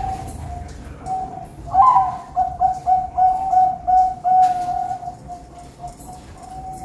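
Zebra doves (perkutut) cooing: repeated mellow notes at one pitch, with a quick run of short staccato notes from about two seconds in until about five seconds.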